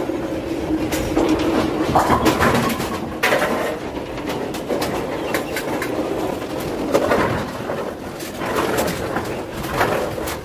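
Bowling alley din: balls rumbling down the lanes and pins clattering, with many sharp crashes and clacks over a steady rumble.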